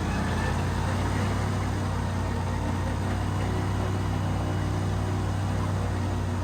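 Airboat engine and propeller running steadily, a deep even hum with a regular low pulse.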